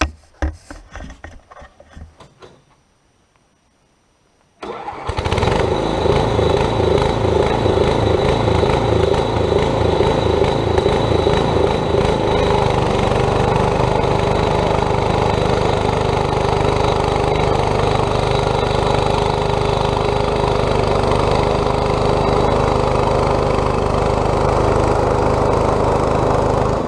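Quadractor's 8 hp small engine running steadily. It comes in abruptly about five seconds in, after a few faint knocks and a short stretch of near silence.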